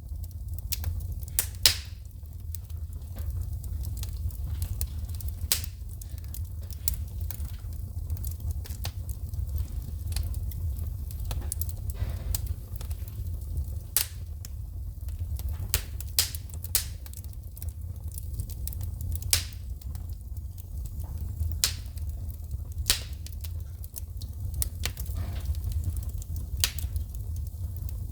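Wood fire in a fireplace crackling, with sharp pops and snaps of shooting sparks, a louder pop every few seconds, over a steady low rumble.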